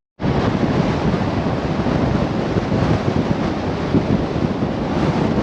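Steady, loud wind rushing over the microphone from the moving truck, starting abruptly after a brief dropout.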